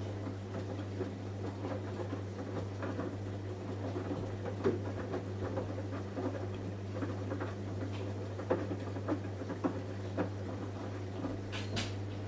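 Samsung Eco Bubble washing machine running its cotton wash: a steady motor hum with irregular light patter and clicks as the drum turns the load, and a sharper click near the end.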